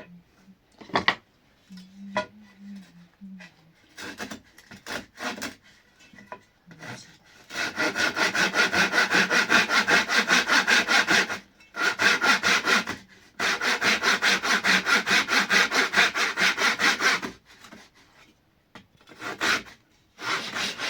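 Hand sawing: quick, even back-and-forth saw strokes in three runs with short breaks between them. Scattered knocks and clatters of handled material come before and after the runs.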